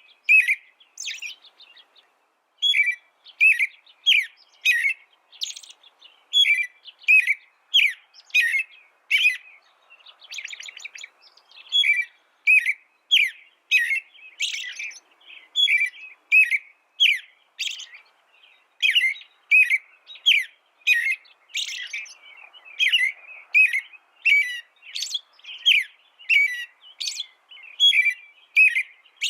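A songbird singing: a long run of short chirps, two or three a second, broken by fast trills about a second in and again around ten seconds in.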